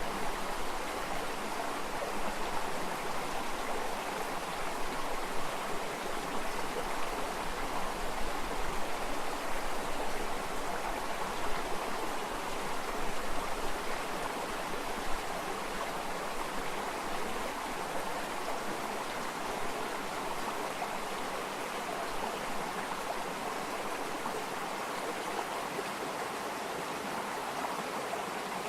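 Flowing stream water, a steady rushing and babbling.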